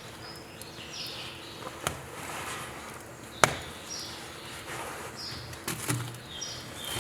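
Small birds chirping repeatedly, with a few sharp crackles and pops from burning firewood; the loudest pop comes about three and a half seconds in.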